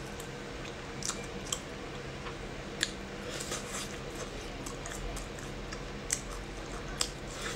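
Close-up chewing and biting of a dry-fried chicken drumstick: scattered sharp crunches and mouth clicks every second or so, over a steady faint hum.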